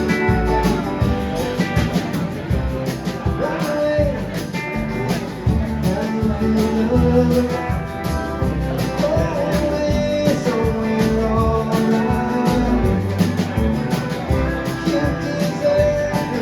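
A live band playing a song: guitar and bass over a steady drum beat, with a voice singing.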